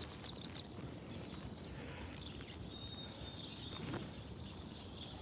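Outdoor park ambience with a steady low background rumble, over which small birds give a few thin, high whistled notes about a second and a half to three and a half seconds in.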